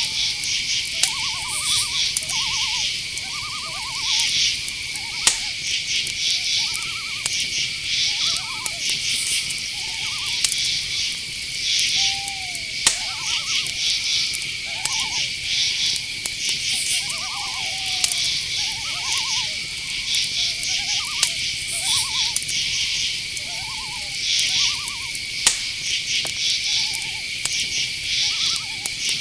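Night forest ambience: crickets and other insects chirping in a dense, pulsing chorus over a steady high trill, with short, wavering owl calls repeating every second or two.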